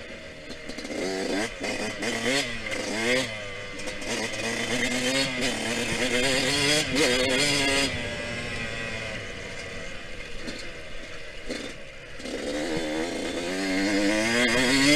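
Yamaha YZ125X two-stroke 125 cc dirt-bike engine revving up and dropping back again and again, the pitch climbing several times, the last and loudest climb near the end.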